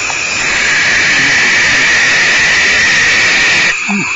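Barn owl giving one long, loud, harsh hiss that cuts off abruptly near the end, the defensive hiss of owls disturbed at the nest box.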